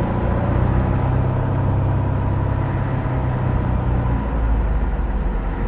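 Van's RV-10 light aircraft's piston engine and propeller droning steadily at low power in the flare just before touchdown; the note changes about four seconds in.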